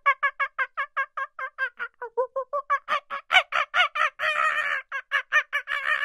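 Monkey chattering: a fast run of short, pitched calls, about six a second. The calls grow louder past the middle and run together into longer continuous cries about four seconds in and again near the end.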